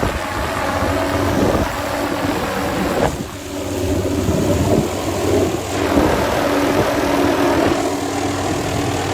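Helicopter in flight heard from inside the cabin: a steady drone of engine and rotors with a constant hum under it.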